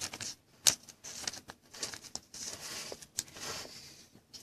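Trading cards and plastic card sleeves being handled: light rustling with scattered sharp clicks.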